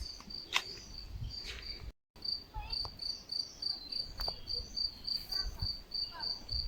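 Cricket chirping steadily, short even chirps at one high pitch about three times a second, with a couple of sharp clicks. The sound drops out completely for a moment about two seconds in.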